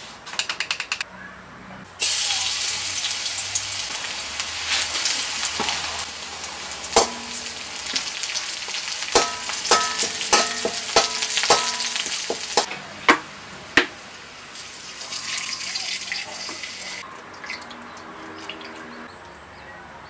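Garlic and dried red chillies sizzling in oil in a steel wok on low heat. The sizzle starts loud about two seconds in and gradually eases, while a metal ladle clinks and rings against the wok a string of times. A second burst of sizzling comes near the end as sauce goes in.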